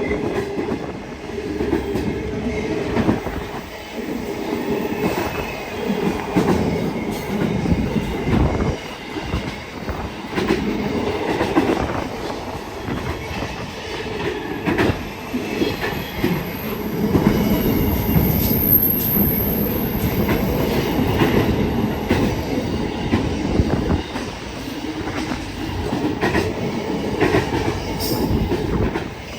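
Long freight train's wagons rolling past: a continuous rumble with wheels clacking over the rail joints, and a thin, high wheel squeal for several seconds in the middle.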